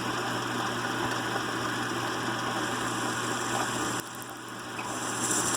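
Lathe running steadily with a low hum, turning new UHMW plastic bushings. About four seconds in, the sound drops suddenly and changes, then builds back up.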